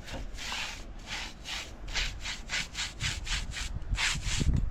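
Rapid back-and-forth scraping or rubbing strokes, about five a second at their quickest, with a few low thuds near the end.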